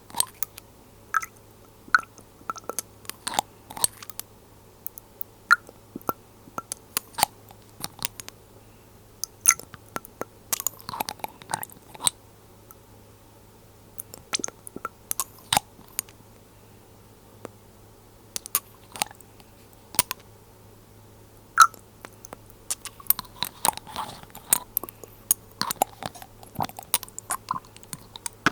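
Glass dropper bottles handled close to the microphone: irregular sharp clicks and taps of glass, lids and droppers, bunching into quick clusters twice, over a faint steady low hum.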